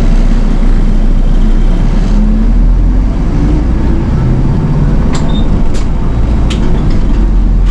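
Nishitetsu city bus under way, heard from inside: steady low engine and road noise, with a few short sharp clicks or rattles about five to six and a half seconds in.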